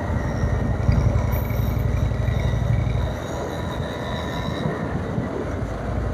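Motorcycle running at highway speed, a steady low rumble of engine and rushing air, somewhat louder for the first three seconds.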